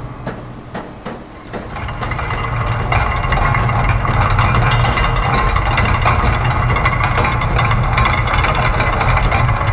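Layered loops of factory machine sounds: a dense, uneven stream of clicks and ticks from gears, ratchets and clockwork over a low mechanical hum. It drops quieter about a second in, then swells back to a steady level.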